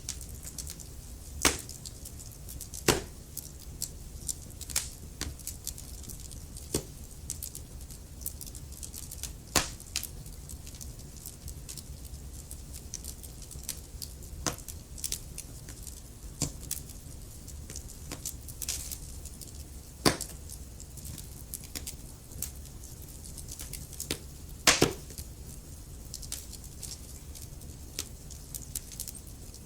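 Wood fire in a fireplace crackling: irregular sharp pops and snaps over a low steady rumble of burning, with a few louder pops, the loudest about 25 s in.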